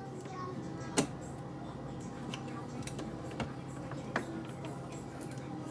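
A few sharp knocks and clicks of containers being handled in a refrigerator, the loudest about a second in and two smaller ones later, over a low steady background hum.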